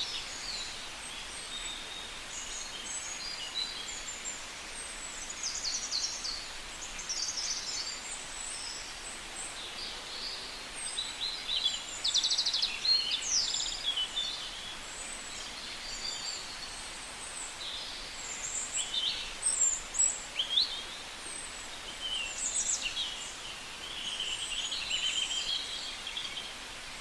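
Birds calling over a steady outdoor hiss: many short, high chirps and rapid trills from several birds, overlapping, with louder bunches of calls about halfway through and again later.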